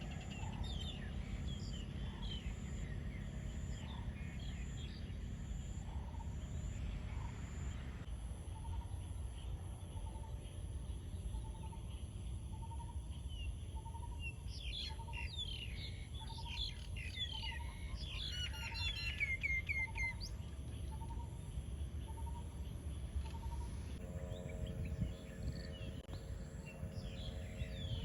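Outdoor forest ambience: several birds chirping and calling, with a steady high-pitched insect drone throughout. Through the middle one bird repeats a single low note a little more than once a second, and a low rumble runs underneath.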